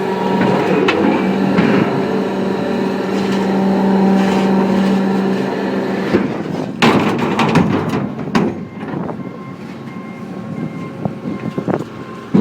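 Hydraulic scrap-metal baler running: a steady hum for about the first six seconds, which then stops, followed by loud metal clanks and crunching of sheet steel.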